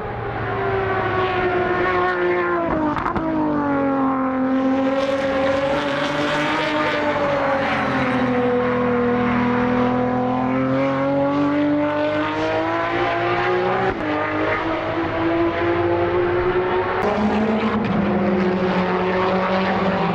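Time-attack race car engine at full volume. Its pitch drops sharply about three seconds in, then rises and falls slowly. A second engine note joins near the end.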